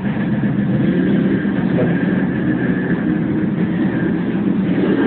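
2008 Yamaha R1's inline-four engine idling steadily.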